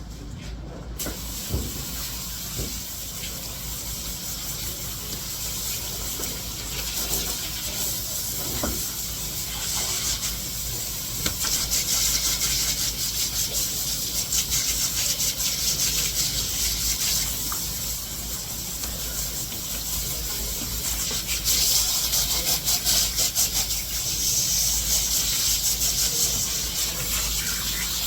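Water running steadily from a tap, a continuous hissing rush with a few light knocks near the start.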